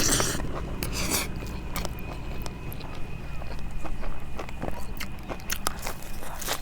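A person eating rice with fish curry close to the microphone: chewing and many short wet mouth clicks, with a couple of brief rustling bursts near the start.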